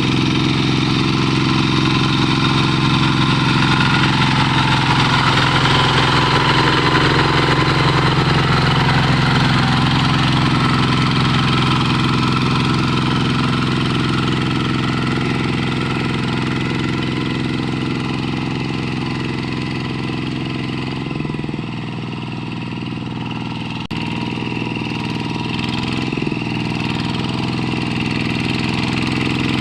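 Tractor engine running steadily, then slowing under load about twenty seconds in, its pitch and loudness dropping for a few seconds before it picks up again.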